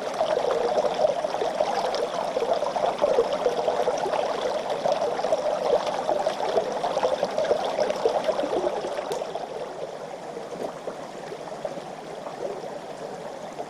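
Mountain river flowing over stones, a steady rushing and babbling of water that becomes quieter about two-thirds of the way through.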